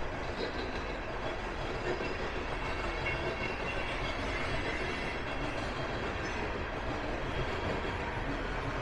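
Train cars rolling past on the rails, a steady rumble and rattle.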